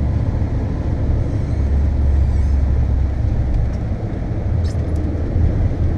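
Volkswagen Golf cabin noise at speed: a steady low rumble of engine and tyres on the track, heard from inside the car.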